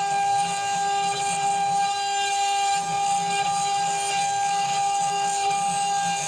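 A homemade CNC router's spindle running with a steady high whine while an R0.75 ball-nose cutter mills brass, with a hiss from the cutting over it.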